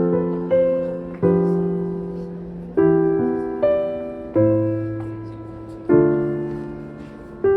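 Background music: slow solo piano, a chord struck about every second or so and left to ring and fade before the next.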